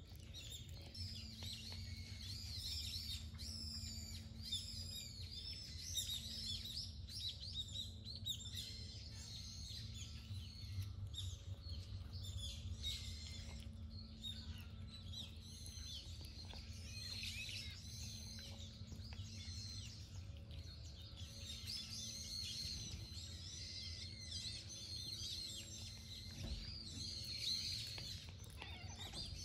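Several small birds chirping at once, call after call, over a steady low background rumble.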